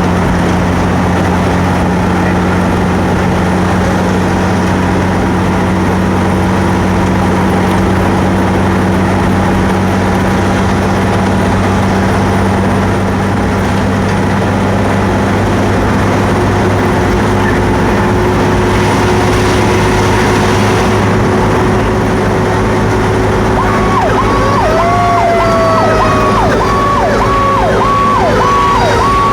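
Fire truck's diesel engine running loud and steady under way. About 23 seconds in, an electronic siren starts pulsing about twice a second, with a second siren tone sliding downward alongside it.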